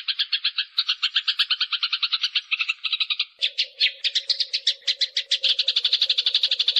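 Eurasian tree sparrows fighting, giving a dense, rapid chatter of harsh chirps, about ten a second without a break. A steady low hum joins about halfway through.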